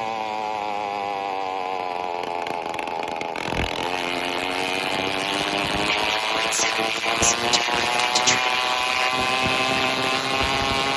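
Phantom 85 two-stroke bicycle engine running with no exhaust pipe. Its pitch sags a little, then climbs steadily from about four seconds in as it speeds up, with a few sharp clicks along the way.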